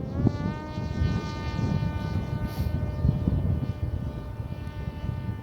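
The electric motor and propeller of a 4S-powered TBS Caipirinha flying wing, whining as it flies at speed. The pitch rises a little near the start, then holds steady. Low wind rumble lies underneath.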